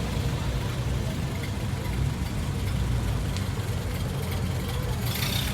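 A car engine idling steadily, with a low rumble.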